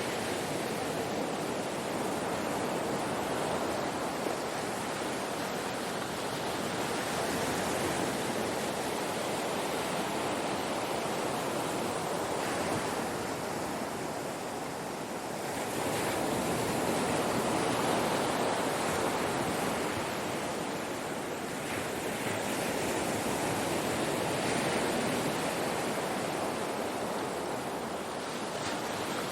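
Ocean surf: waves breaking and washing on a shore in a continuous rushing wash that swells and eases every few seconds.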